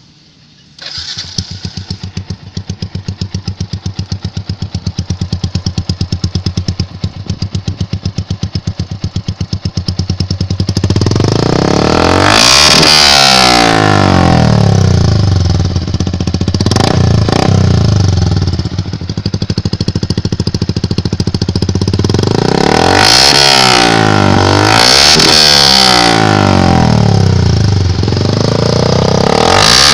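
Yamaha Sniper 135 motorcycle engine with an ORBR aftermarket exhaust, starting about a second in and idling with a fast, even pulse. From about the middle on it is revved several times, the pitch rising and falling with each blip of the throttle.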